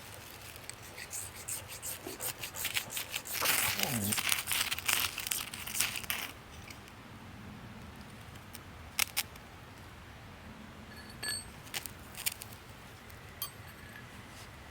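Crinkling and tearing as something is handled for a few seconds, loudest in the middle, followed by a few separate sharp clicks.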